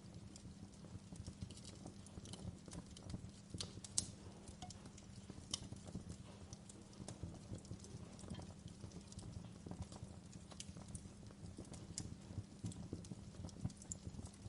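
Wood fire crackling, with many small irregular pops and snaps over a low steady background; one sharper pop about four seconds in.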